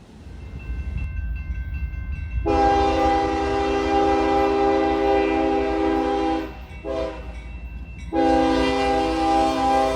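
Freight locomotive air horn sounding a long blast, a short blast and another long blast, over the low rumble of the train.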